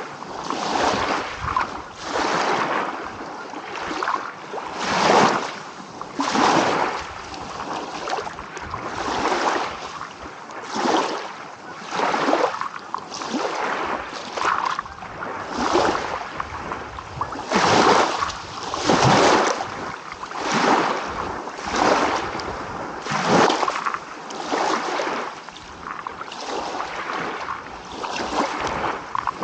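Small ocean waves rolling in and washing over the shore, one rush of surf after another every second or two.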